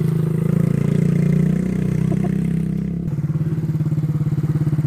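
1985 Honda Z50R minibike's small single-cylinder four-stroke engine running as it rides in, then settling about three seconds in to an evenly pulsing idle.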